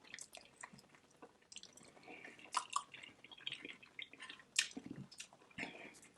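Close-miked wet chewing and lip-smacking while eating: a scatter of soft, irregular clicks and squishes.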